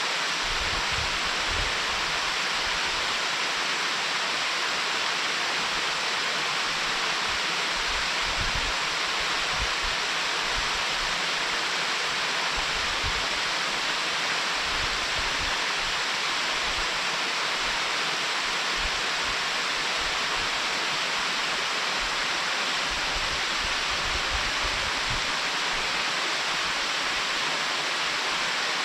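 Mountain stream water rushing over a weir, a steady, even hiss with no change.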